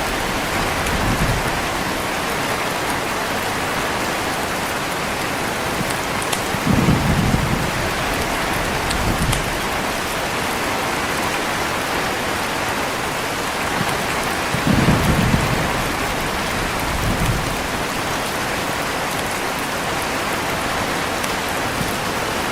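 Heavy rain falling steadily, with low rolls of distant thunder swelling up about a third of the way in and again past the middle, each lasting a second or two.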